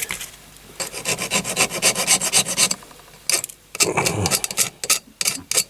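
Hand file rasping back and forth on the metal end of a pin on a die-cast toy caravan. It makes a quick run of short, even strokes, then several slower, separate strokes.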